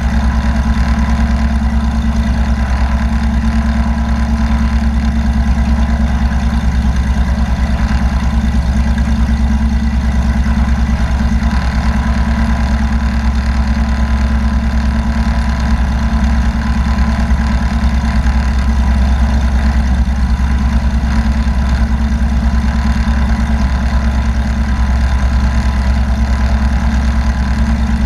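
Loud, steady drone of a light aircraft's piston engine and propeller, holding constant power with no change in pitch.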